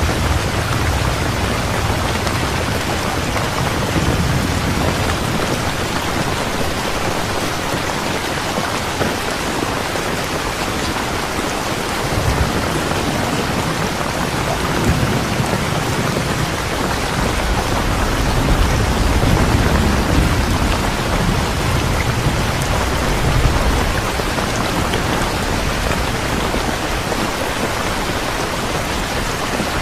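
Steady, heavy rain falling, with low rumbles of distant thunder swelling and fading several times.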